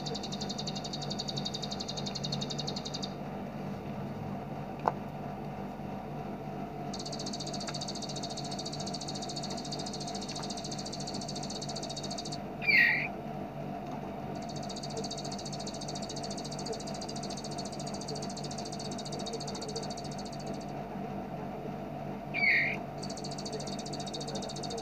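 Bar-winged prinia (ciblek) giving its rapid machine-gun 'ngebren' trill in long high buzzy runs of several seconds each, broken by short pauses, with two loud single falling chirps about halfway and near the end. A steady low hum runs underneath.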